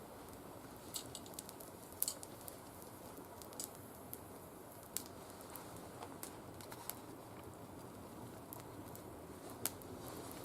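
Oak twigs that are not fully dried burning in a small mesh fire pit, a low steady fire noise with irregular sharp crackles and pops, the strongest about two seconds in and near the end.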